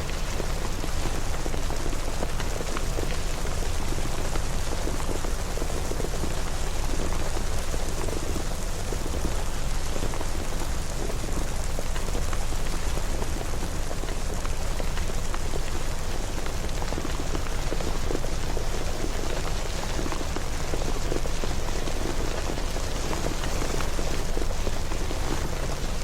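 Steady rain falling and pattering on surfaces, with many small drop ticks over a low rumble.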